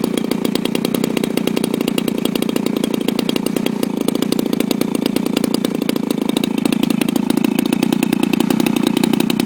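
Small model airplane engine running steadily with a rapid buzz, picking up slightly in pitch and loudness over the last couple of seconds.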